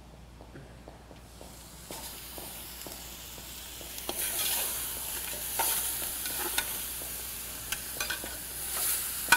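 Food frying and sizzling in a large metal pot on a gas burner while it is stirred, the spoon knocking against the pot now and then. The sizzling gets louder about four seconds in.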